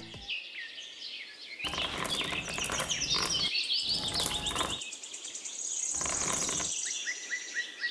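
Small birds chirping in quick, short, repeated calls. Three stretches of rustling noise come and go over the chirps, about two, four and six seconds in.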